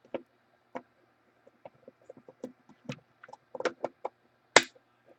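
Trading cards being handled, giving a scattered series of light clicks and taps with a sharper snap about four and a half seconds in.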